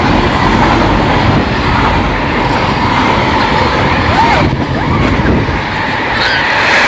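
Train passing close along the platform, a loud steady rumble of wheels on rails.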